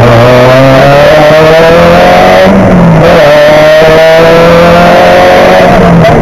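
Renault Mégane rally car engine heard from inside the cabin, pulling hard at full throttle with its pitch slowly climbing. The pitch drops briefly about two and a half seconds in and again near the end, at a gear change or a lift off the throttle.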